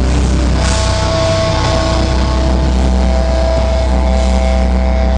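Live rock band playing loudly with guitars and drums, no vocals, over a heavy, steady low end; a high held guitar note comes in about a second in.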